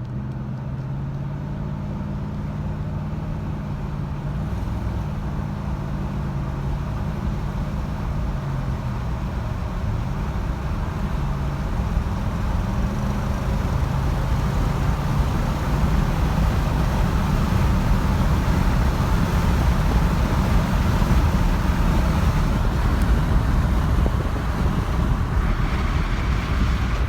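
A 2008 Nissan Titan's 5.6-litre V8 accelerating hard up to highway speed. The engine note climbs and drops back in steps as it works through the gears, and the road and tyre noise grows steadily louder as speed builds.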